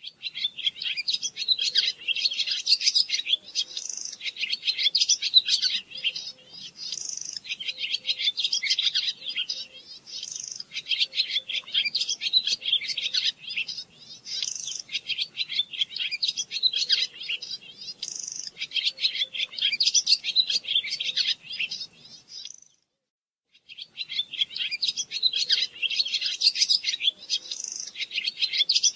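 A songbird singing in long, continuous runs of rapid high twitters and trills, broken once by about a second of silence about three-quarters of the way through.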